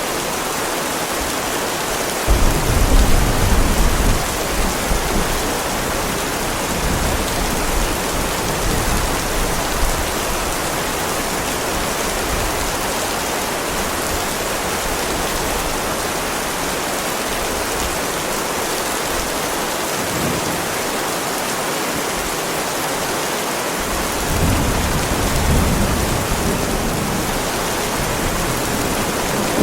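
Heavy rain falling steadily on a driveway, with thunder. A sudden low rumble comes about two seconds in and dies away over a few seconds, and another roll builds near the end.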